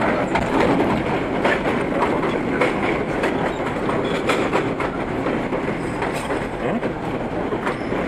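An R32 subway train running at speed, heard from inside the lead car: a steady roar of wheels on rail with irregular clicks as the wheels pass over rail joints.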